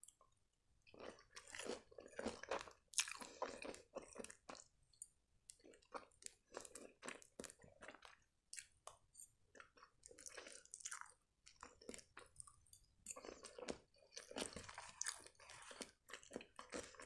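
Close-miked chewing of a breaded fish triangle and buckwheat: a quiet, irregular run of wet mouth clicks and crunches.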